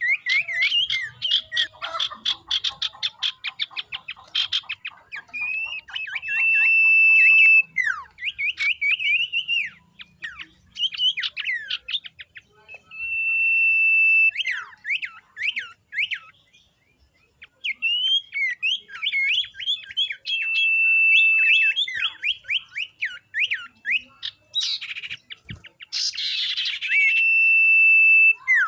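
A flock of young common ioras calling: long steady high whistles held for about a second, alternating with quick chattering trills and falling chirps. A harsher, scratchy outburst comes near the end.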